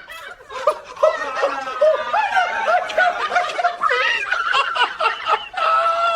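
Hearty laughter in quick repeated rising-and-falling bursts. About five and a half seconds in, it turns into one long, held high-pitched cry.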